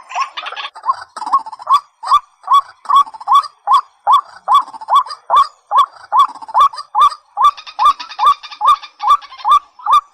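White-breasted waterhen calling: a long series of short, hooked 'kwak' notes repeated about three times a second.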